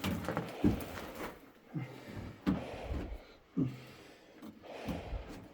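A person climbing a ladder: knocks and scuffs of boots and hands on the rungs about once a second, each with a short grunting breath of effort.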